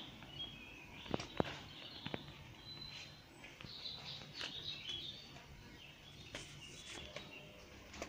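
Small songbirds chirping and tweeting in short, scattered high calls. A few sharp clicks come about a second in.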